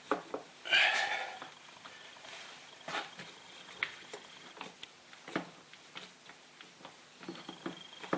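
Small metal clicks and taps of a Torx bit and screwdriver being worked into a small screw on an aluminium throttle body, with one louder, longer scrape-like sound about a second in.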